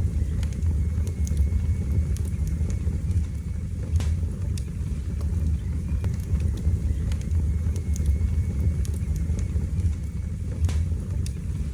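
Wood fire burning in a fireplace: a steady low rumble of flames with scattered crackles and pops, including sharper pops about four seconds in and near the end.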